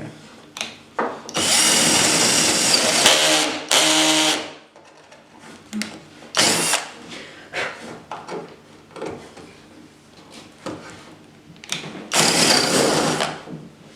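Power drill boring a hole for a cable through the campervan bed base, run in several bursts of a second or two with short pauses and clicks between. The drill labours, which the user puts down to cutting into part of the frame.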